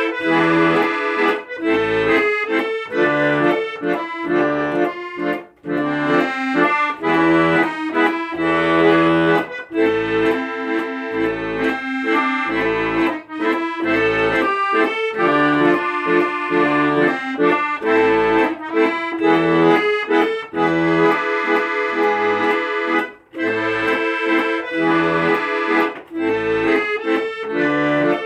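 Accordion playing an instrumental passage: a melody with chords over a regular pulse of low bass notes, about one a second.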